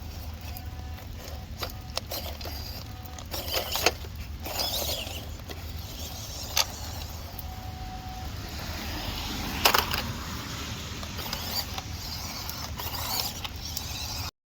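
Electric RC crawler driving at full throttle over wet ground, its motor and drivetrain running under a steady low hum. Scattered clicks and knocks come through, the sharpest about ten seconds in.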